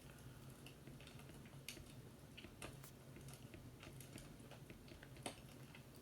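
Faint crackling of a wood fire: scattered, irregular pops and clicks, a few louder than the rest, over a steady low hum.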